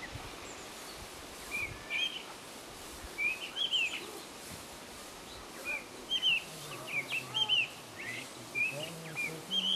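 Small birds chirping: short, high calls in little clusters every second or two, over a faint steady outdoor background.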